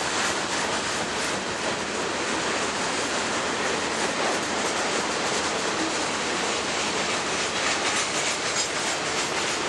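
Freight train cars rolling steadily past: the continuous noise of steel wheels running on the rails.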